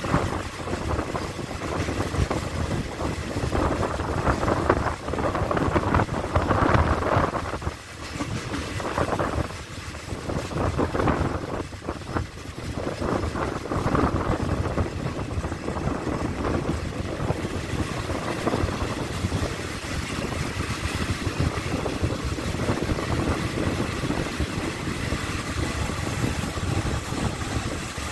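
Passenger coaches of Thai rapid train 171 running on the rails, heard from an open coach window: steady wheel-and-rail clatter with a rush of wind on the microphone, dipping briefly about 8 and 12 seconds in.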